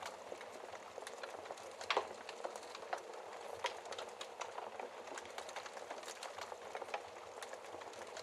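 Wood fire burning in a fireplace: steady hiss of flames with frequent crackles and small pops of the burning logs, a louder pop about two seconds in.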